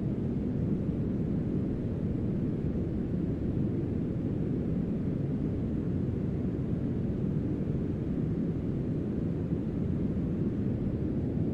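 Steady, deep brown noise mixed with a rain sound, the low rumble far stronger than any higher hiss, with no change or separate sound.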